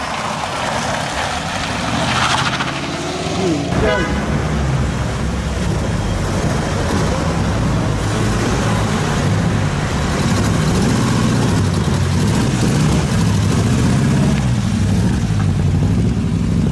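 Historic rally cars' engines running at low revs as they crawl past, the engine note wavering slightly up and down, with onlookers' voices. In the first few seconds a car passes on a mountain road.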